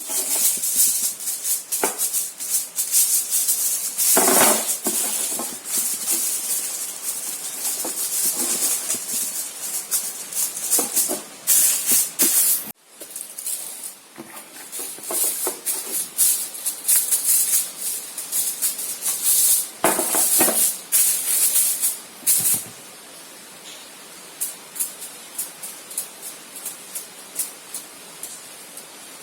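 Chicken drumsticks frying in hot oil: dense, loud sizzling and crackling that drops out abruptly about 13 seconds in and resumes, then settles about 22 seconds in to a quieter steady sizzle with occasional pops.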